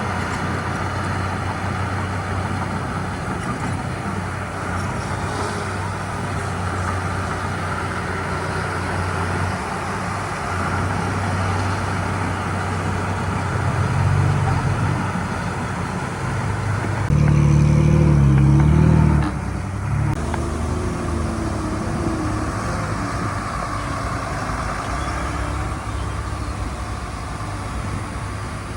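Heavy diesel engine running steadily, with a louder, deeper surge under load for a couple of seconds past the middle before it settles back.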